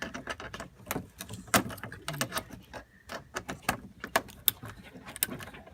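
Ratcheting Phillips screwdriver backing screws out of a car's mud flap: a string of sharp, irregular clicks.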